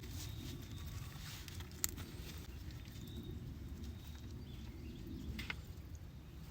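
Steady low outdoor rumble with a few sharp clicks, the loudest about two seconds in and another near the end.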